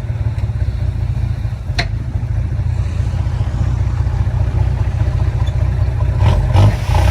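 Heavy-equipment diesel engine running steadily under load, with a single sharp click about two seconds in and the revs rising near the end.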